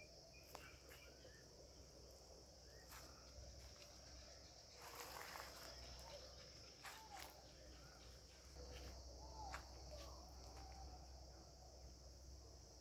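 Insects droning steadily in a continuous high-pitched hum, faint overall, with a few scattered soft clicks and rustles.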